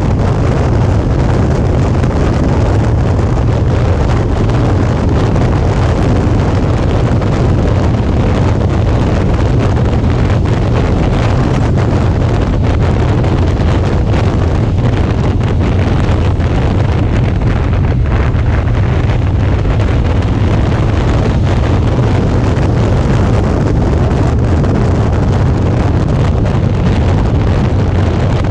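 Steady wind rushing over an action camera's microphone on a moving Suzuki V-Strom 650 motorcycle, with the bike's V-twin engine running underneath at a steady cruise.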